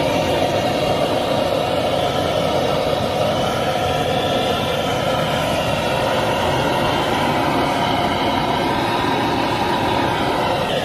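Kerosene water heater's burner running with a steady roar that holds at an even level throughout.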